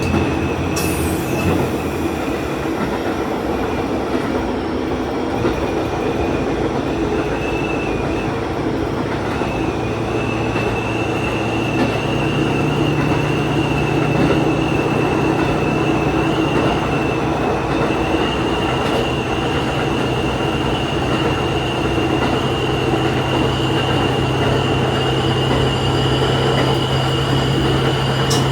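Diesel railcar running, heard from the driver's cab: a steady engine drone and rail running noise with a thin high whine over it. About twelve seconds in, the engine note steps up.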